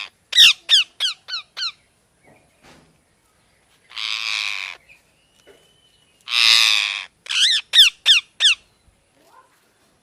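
Alexandrine parrot calling: a harsh squawk followed by a quick run of five sharp, falling shrieks, another harsh squawk about four seconds in, then a squawk and a second run of five falling shrieks a little past halfway.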